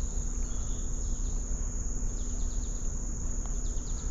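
Insects keeping up a steady, high-pitched drone, over a low rumble.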